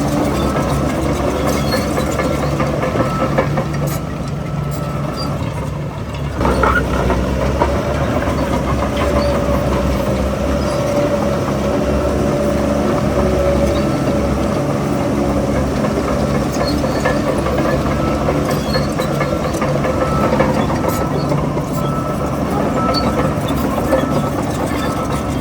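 Heavy diesel engine of earthmoving machinery running steadily, with a steady whine over it and a single clank about six seconds in.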